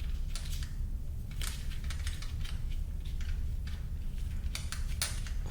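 Small metal clicks and clinks of steel bolts and hand tools being handled as bolts come out of a dirt bike, irregular and scattered, over a steady low hum.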